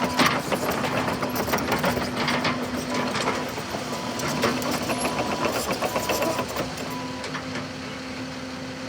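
Cat 308CR mini excavator's diesel engine running, with a rapid mechanical clatter; it grows somewhat quieter near the end.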